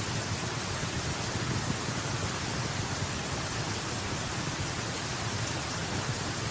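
Wood campfire burning with a steady rushing noise and hardly any distinct pops.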